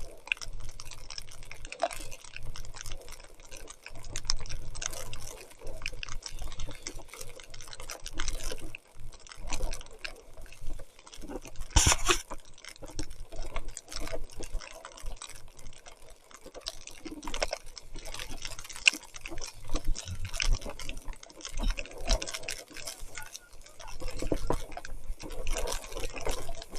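Mountain bike being ridden through wet mud and water in heavy rain: tyres splashing and spattering, with many small irregular clicks and knocks. A louder burst of noise comes about twelve seconds in.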